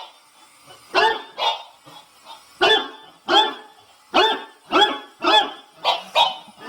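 A dog barking repeatedly: about nine barks at uneven intervals, beginning about a second in.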